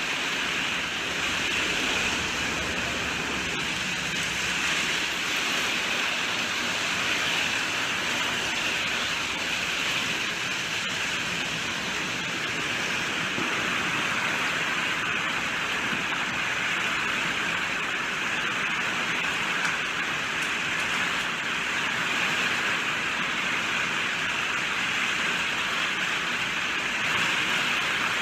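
Steady rainfall, an even hiss of rain falling.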